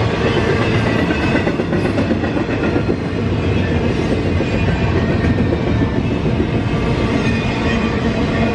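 Norfolk Southern intermodal freight train rolling steadily past, a continuous loud rumble of its wheels on the rails.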